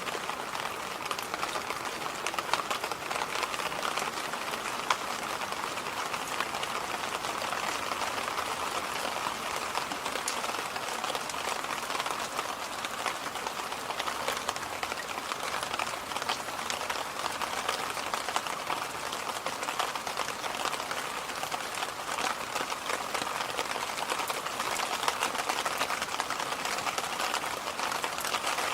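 Electric fan running steadily: an even airy rush with a fine scatter of small ticks.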